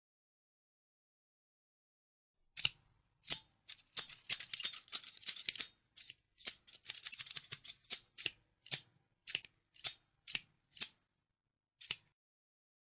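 Scissors snipping in sharp, crisp clicks. After about two and a half seconds of silence, single snips give way to two quick runs of rapid cutting. Then come single snips about every half second, stopping about a second before the end.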